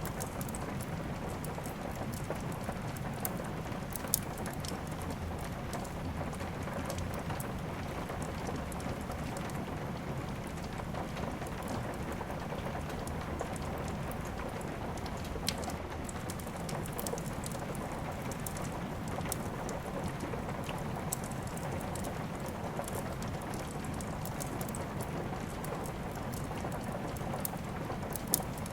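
Steady rain mixed with a wood fire crackling, with scattered sharp pops, a few of them much louder.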